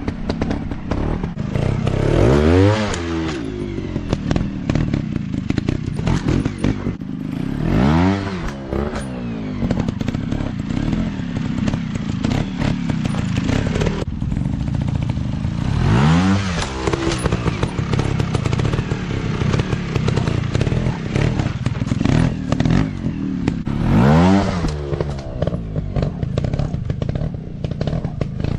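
Dirt bike engine running, blipped up in revs and back down about four times, with a rising then falling engine note each time, over rattling and knocking clatter.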